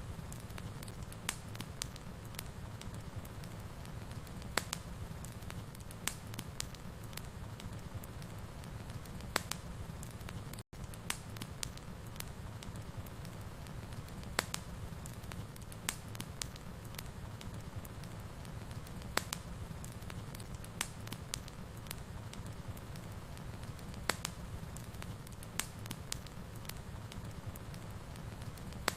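Wood fire crackling, with irregular sharp pops over a steady low rumble of the burning fire, broken by a split-second dropout about a third of the way through.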